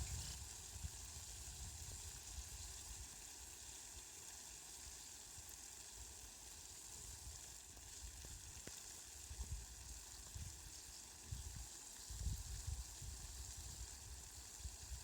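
Steady rain falling, a faint, even hiss, with a low rumble that comes and goes, strongest in the last few seconds.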